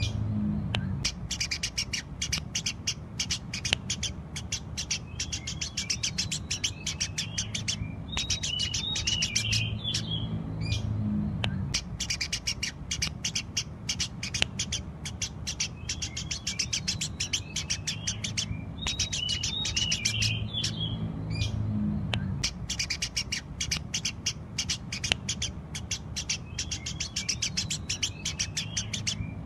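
Eurasian tree sparrow chirping rapidly and without pause, with a low hum underneath. A passage of chirps recurs about every ten seconds.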